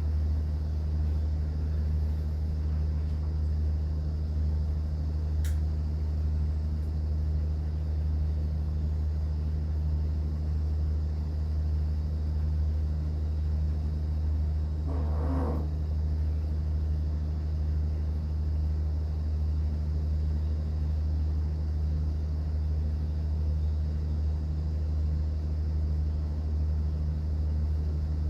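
Steady low drone of a cruise boat's engine, a constant deep hum with no rise or fall. A short click sounds about a fifth of the way in, and a brief higher pitched sound about halfway through.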